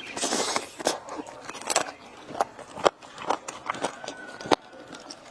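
Eating sounds: biting and chewing, with sharp clicks and crackles scattered through, and a short crunchy rustle at the start.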